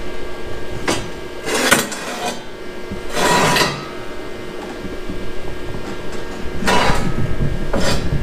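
Metal parts and tools being handled during a lawnmower fabrication: several short bursts of clattering and scraping at irregular intervals over a steady hum.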